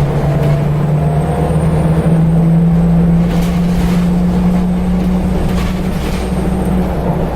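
Scania L94UB Wright Solar single-decker bus driving, heard from aboard: a steady engine drone and transmission whine from its ZF automatic gearbox. The held tone steps up slightly about two seconds in.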